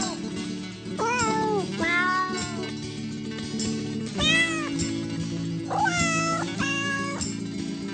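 A cat meowing about five times, each meow a short call that rises and falls in pitch, over background music with steady sustained low notes.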